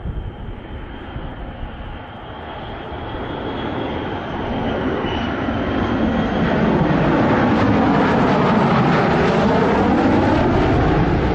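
A jet fighter flying past, growing louder over several seconds and holding loud near the end as it passes close.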